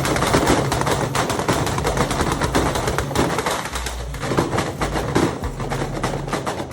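Toyota Supra held on a two-step launch limiter, its exhaust popping and banging in a rapid, machine-gun-like string over the engine's steady note.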